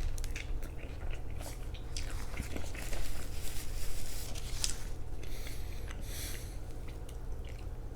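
Someone biting into a slice of keto-crust pizza and chewing it, with small crackling mouth noises.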